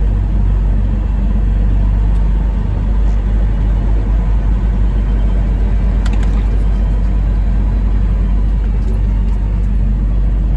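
Semi truck's diesel engine running, a steady low rumble, with a short sharp sound about six seconds in.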